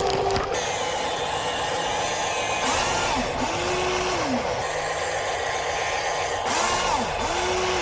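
Small electric motor of a radio-controlled construction model whirring over a steady hiss. Twice its whine rises quickly in pitch, holds, then falls away.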